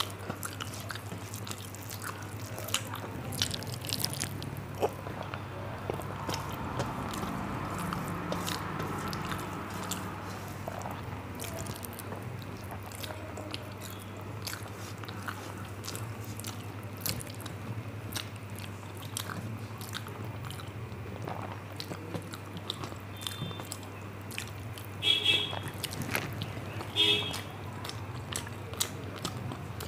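Close-miked mukbang eating: chewing mouthfuls of rice and curry, with many small wet mouth clicks and smacks over a steady low hum. Two short, loud honking tones, about two seconds apart, come near the end.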